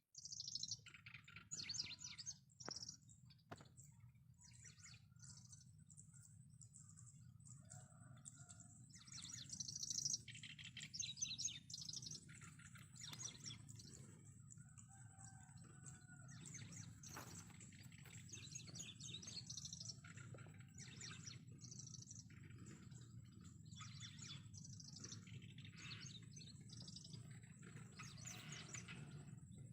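Wild birds chirping and calling, a busy run of short calls over a steady low background rumble, louder for a few seconds near the start and again about ten seconds in.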